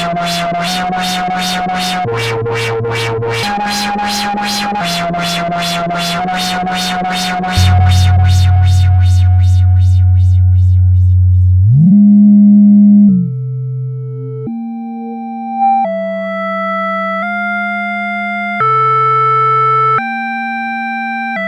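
Arturia Brute-series analog synthesizers playing an unprocessed sequence: quick repeated notes over a bass line, with a louder deep bass note coming in about a third of the way through. The quick pattern fades out, a note glides up in pitch, and a slower line of held notes follows, changing pitch about once a second.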